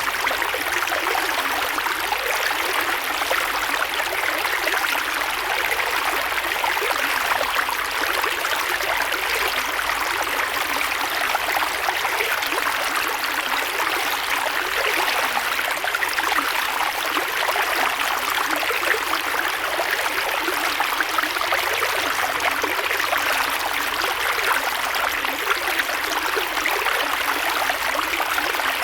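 Creek water flowing steadily over rocks, a continuous rushing and babbling with a little trickling.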